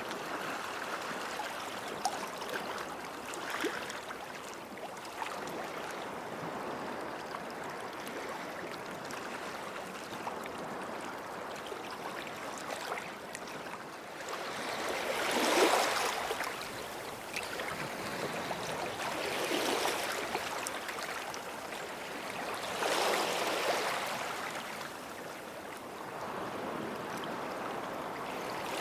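Small sea waves washing onto the shore: a steady hiss of water, with a louder wash rolling in and fading about halfway through and three more following every few seconds, the first of these the loudest.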